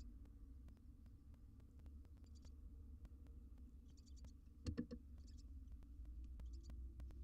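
Faint sounds inside a barn owl nest box over a low hum: brief bursts of rapid high chittering ticks every second or so, with one sharp knock about two thirds of the way through.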